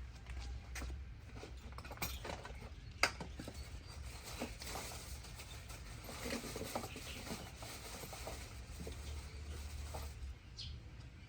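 Scattered light clicks, taps and rustles of hands handling small parts while a carburetor is swapped, with one sharper click about three seconds in, over a low steady hum.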